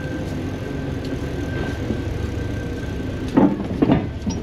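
Road and traffic noise heard while riding an electric bike, with a thin steady whine that stops about three seconds in. A few short voice-like sounds come near the end.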